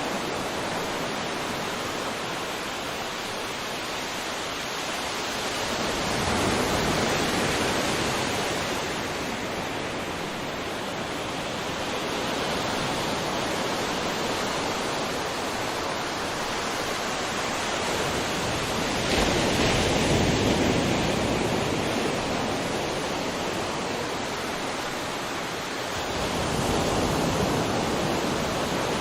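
Sea waves washing on the shore: a continuous rush of surf that swells three times as larger waves break.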